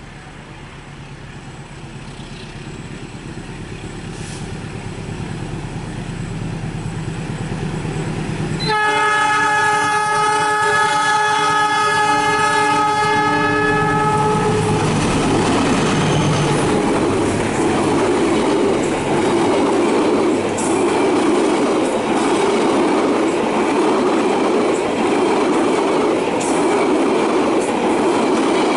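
A train approaching with a rising rumble, sounding its horn in one long blast of about six seconds as it comes close, then passing at speed with loud rolling noise and a rhythmic clickety-clack of wheels over rail joints.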